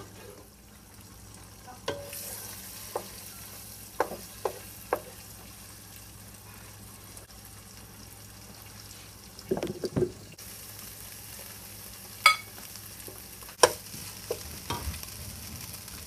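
Eggs frying in butter and oil in a pot: a steady high sizzle that starts about two seconds in, with scattered sharp knocks and clatter of utensils against the pot.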